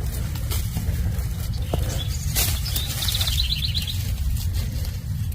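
A small bird gives a brief, rapid chirping trill about three seconds in, over a steady low rumble and a few short scrapes or rustles.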